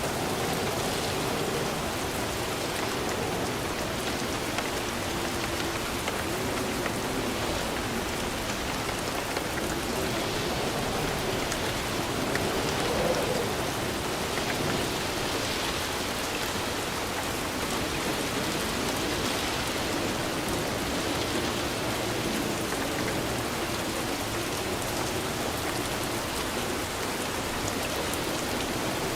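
Steady rain falling on a surface, an even patter with a slight swell about halfway through.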